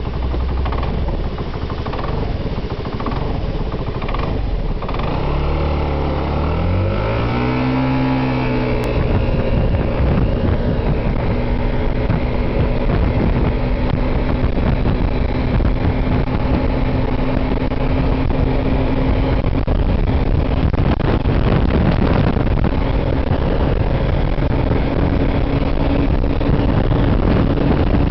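Gilera Runner VX 125 scooter's single-cylinder four-stroke engine at full throttle. Its pitch climbs quickly for a few seconds about a fifth of the way in, then holds at a steady high drone as the automatic belt transmission keeps the revs up while speed builds. Heavy wind noise on the microphone runs throughout.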